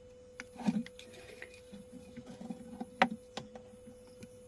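Small clicks, taps and scratches of soldering work on a small circuit board, with the sharpest clicks about three seconds in, over a faint steady tone.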